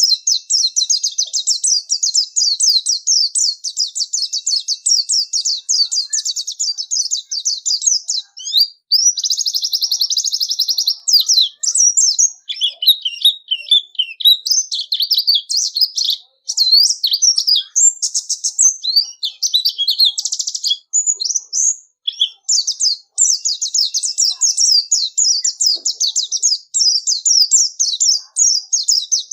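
White-eye (pleci) singing a long, high-pitched, very fast chattering song. Dense runs of rapid notes break into more varied twittering phrases in the middle.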